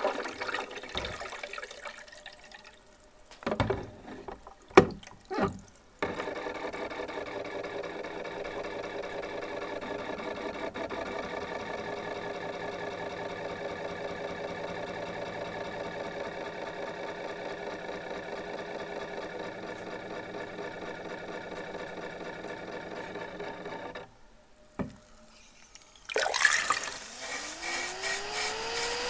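Cordless vacuum cleaner's motor. After a few sharp knocks, it runs with a steady hum for about eighteen seconds, then cuts off suddenly. After a single knock it starts again, with a rising whine as it spins up near the end.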